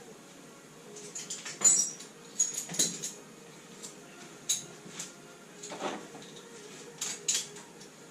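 Hand tools working on a classic Mini's engine bay: irregular metallic clinks, knocks and short scrapes of spanners and sockets against metal, with pauses between them.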